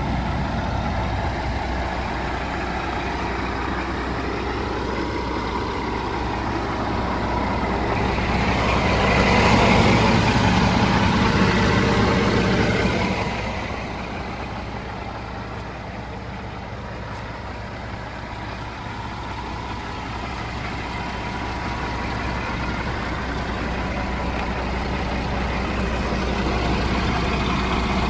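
Scania R 480 truck's diesel engine running at idle, a steady low hum that swells louder for a few seconds about a third of the way in, then falls back quieter.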